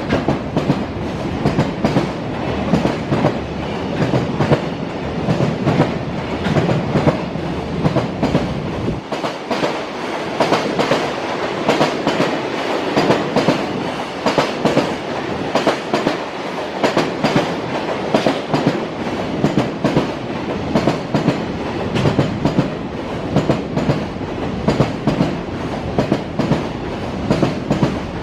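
Freight train running through a station without stopping, its wagon wheels clacking over rail joints in a steady repeating rhythm. The deepest rumble drops away about nine seconds in.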